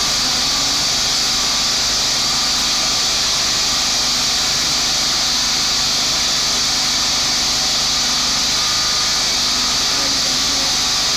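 The Honda V12 of a McLaren Honda MP4/6 Formula One car running at a constant speed, a steady, unbroken engine sound with no revving.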